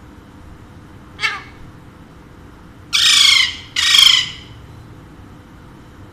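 Alexandrine parakeet squawking: one short call about a second in, then two loud squawks back to back, each under a second long.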